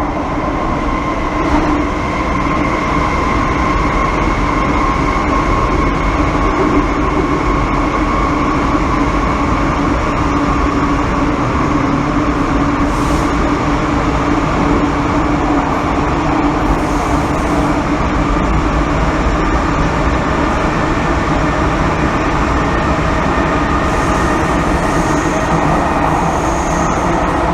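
MTR Kwun Tong Line M-Train running, heard from inside the passenger car: a steady rumble of wheels on rail with a few steady hums from the running gear.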